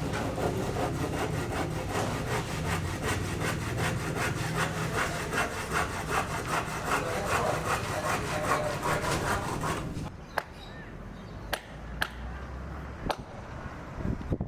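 Hand sawing: quick, rhythmic back-and-forth saw strokes that stop abruptly about ten seconds in, followed by a few sharp knocks.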